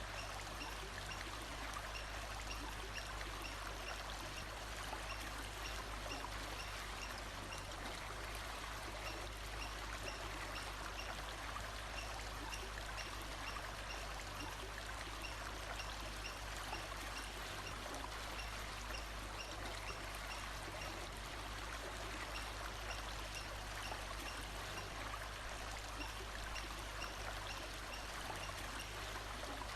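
Steady rush of a running stream, with faint high chirps repeating evenly through the first half.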